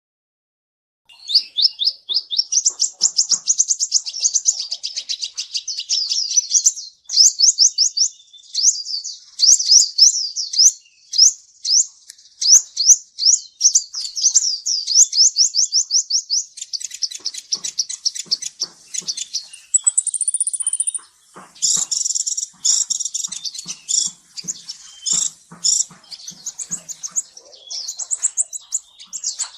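Kolibri ninja sunbird singing: rapid, high-pitched runs of quick sweeping notes. The song starts about a second in and grows denser and louder in the second half.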